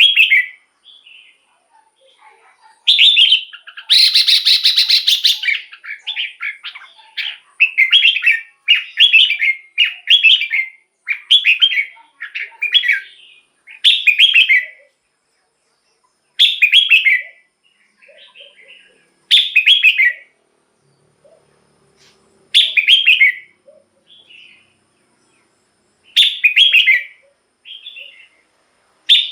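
Red-whiskered bulbul singing: short, bright phrases repeated every two to three seconds, with a longer, denser run of song about four seconds in.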